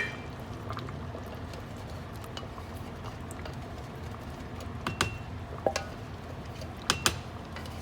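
A few short, sharp clicks and clinks of cookware and kitchen utensils being handled, about five seconds in and twice around seven seconds, over a steady low hum.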